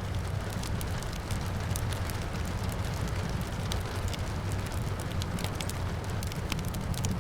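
Wood fire crackling with frequent sharp pops and snaps over a steady low rumble, with rain falling outside.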